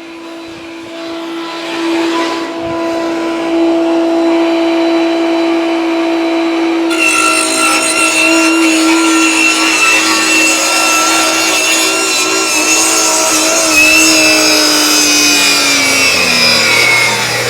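Table saw running, then cutting into a laminate countertop from about seven seconds in, a harsh high whine over the steady motor hum. Toward the end the motor's pitch sags under the load. The woodworker thinks the blade was burning through the Formica top rather than pinching, and catching on the safety at the back of the blade.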